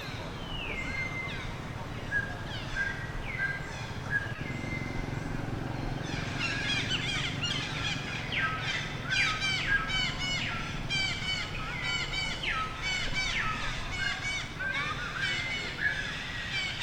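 Birds calling: at first a few falling whistled notes and short repeated chirps, then from about six seconds in a dense chorus of rapid chirps.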